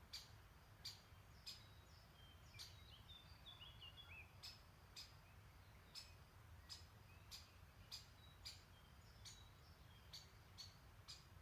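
A songbird repeating a short, sharp call about every two-thirds of a second. Another bird's brief twittering phrase comes about three seconds in. Under both lies a faint low rumble.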